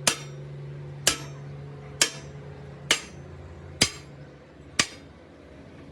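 Hammer blows on a steel truck wheel rim, six sharp metallic strikes about one a second, each ringing briefly, over a steady low hum.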